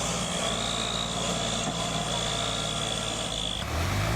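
Tractor engine running steadily under heavy load, with a thin high whine over it. About three and a half seconds in, the sound cuts abruptly to another tractor engine revving up.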